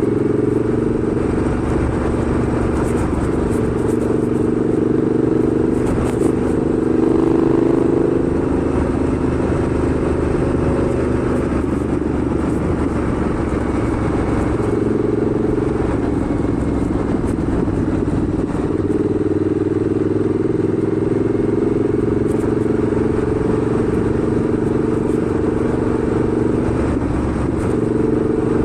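Motorcycle engine running steadily on the move, with wind and road noise. The engine note eases off briefly a little past halfway, then picks up again.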